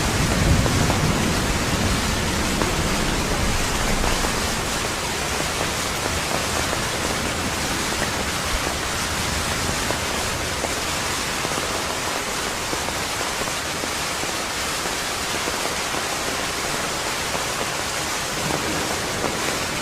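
Steady rain falling hard, an even hiss. A low rumble of thunder dies away over the first few seconds.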